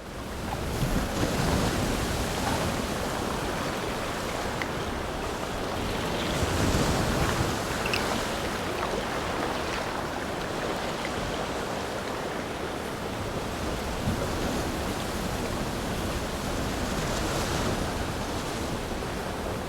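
Steady rush of sea waves and wind, fading in over the first second.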